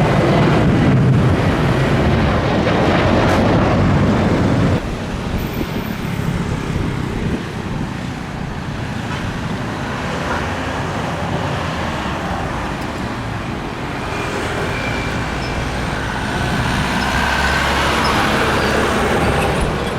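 Airliner jet engines during takeoff, a loud steady rumble and roar. It drops suddenly about five seconds in to a quieter rumble, which builds again near the end.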